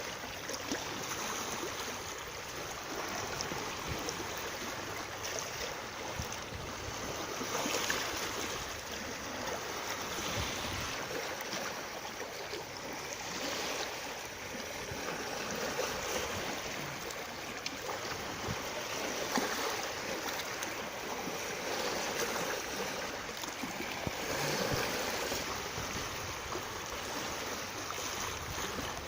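Steady rushing of running water, with gentle swells in level and small splashing clicks.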